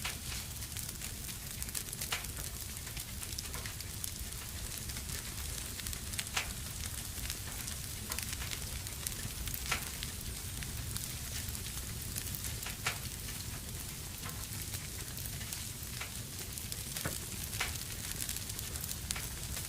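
Wood fire burning in a fireplace: a steady hiss and low rumble with scattered sharp crackles and pops every second or few.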